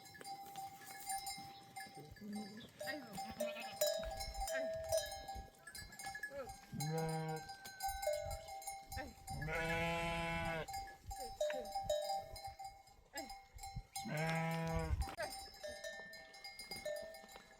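A flock of sheep or goats with bells clinking and ringing, and animals bleating three times; the middle call is the longest.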